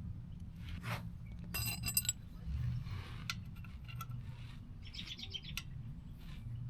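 A wrench tightening a worn oil drain plug into a motorcycle oil pan: two short runs of fast clicking, about a second and a half in and again near five seconds, with a few light metal taps between.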